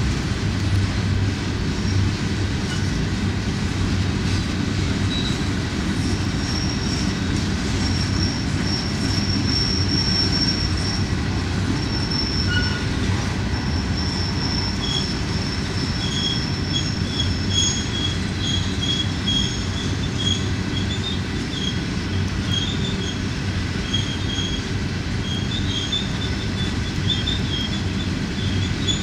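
Empty freight gondola cars rolling past with a steady rumble of wheels on rail. High-pitched squealing from the wheels on the curve sets in about six seconds in and comes and goes at a couple of different pitches.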